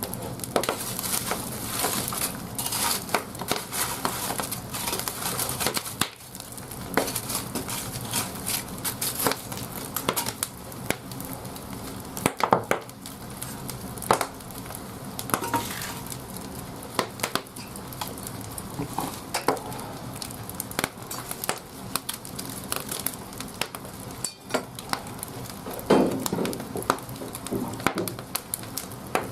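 Wood fire crackling and popping in the firebox of a wood-fired bathhouse boiler: a steady hiss of burning with irregular sharp snaps throughout.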